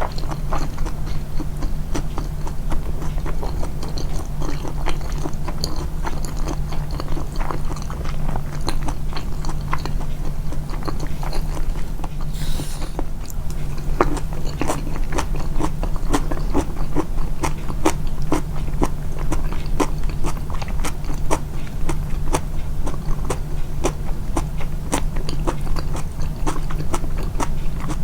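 Close-miked, amplified chewing of a person eating: a steady run of small wet mouth clicks and smacks, over a steady low hum.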